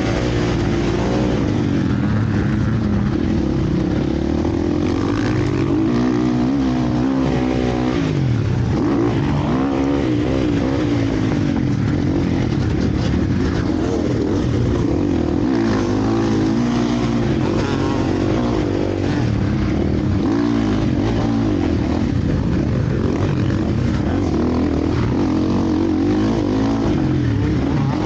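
Several motocross bikes racing, their engines revving up and down continuously and overlapping one another.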